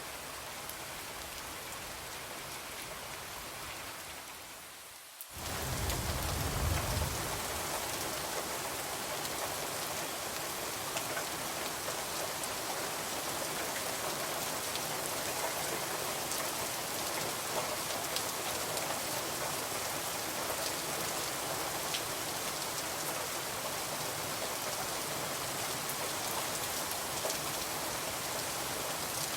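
Steady rain falling, with scattered faint ticks of drops. About four seconds in it fades down, then about five seconds in it comes back suddenly louder, with a brief low rumble.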